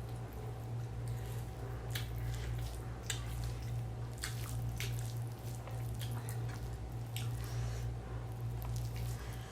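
Close-up wet chewing and mouth sounds of someone eating mouthfuls of mixed rice, with irregular smacks and clicks over a steady low hum.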